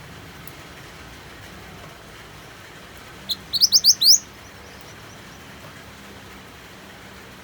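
A minivet gives one quick run of about six sharply rising, high chirps a little over three seconds in, over a steady hiss of rain.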